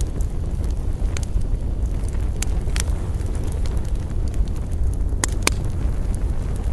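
Campfire of burning wood crackling, with scattered sharp pops over a steady low rumble; the two loudest pops come close together about five seconds in.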